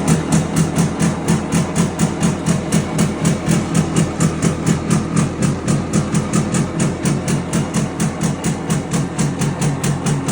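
Simson Schwalbe moped's single-cylinder two-stroke engine running steadily, with an even pulsing of about five beats a second.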